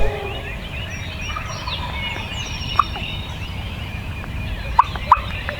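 Wild turkey gobbling amid steady chirping songbird calls. Three short, sharp calls stand out: one about halfway through and two close together near the end.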